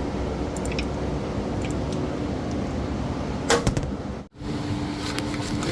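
Light metallic clicks of hand tools on a truck's engine, with a sharp clatter about three and a half seconds in, over a steady low background rumble. The sound drops out briefly near the end where the recording cuts.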